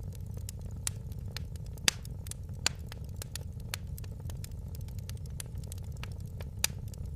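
Wood fire crackling, with frequent small snaps and a few louder pops over a low steady rumble.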